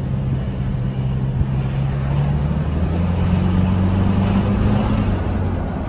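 Toyota Hilux 2.8 four-cylinder turbodiesel engine running with a steady low hum that steps up slightly in pitch about halfway through. The engine's timing-chain rattle has just been repaired.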